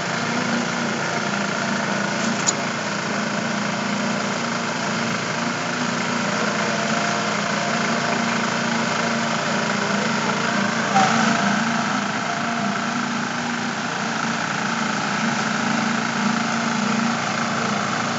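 An engine of construction machinery running steadily at a slab concrete pour, with a sharp knock about eleven seconds in.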